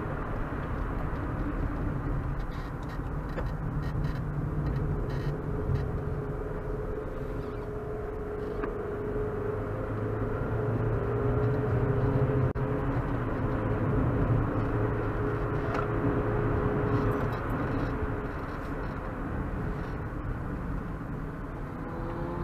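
Opel Astra 1.4's four-cylinder petrol engine running under light load, heard from inside the cabin, with steady road and tyre noise as the car slows through a series of track corners.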